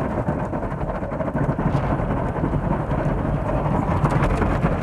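Automatic car wash equipment working on the car, heard from inside the cabin: a steady low rumble with a rain-like hiss.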